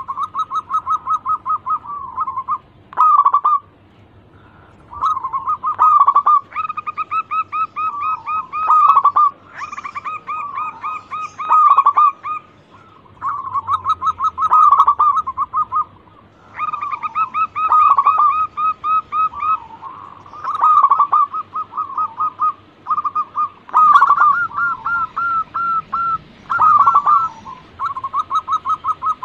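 Zebra dove (perkutut) cooing: repeated bouts of rapid, staccato coo notes, each bout a few seconds long, separated by short pauses.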